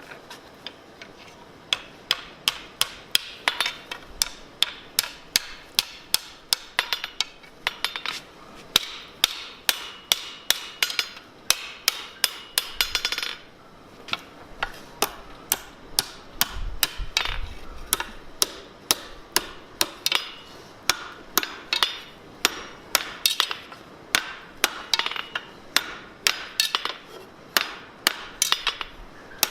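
Blacksmith's hammer striking hot steel on an anvil, a steady run of blows about two a second, each with a short metallic ring. The hammering stops for about two seconds about halfway through, then starts again.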